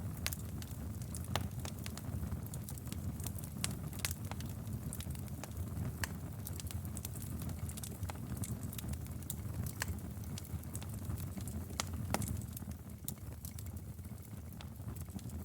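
Outdoor wood fire burning with a steady low rumble and frequent sharp, irregular crackles and pops.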